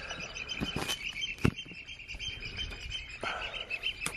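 Rapid, steady high-pitched bird chirping, with a couple of sharp knocks, one about a second and a half in and one near the end.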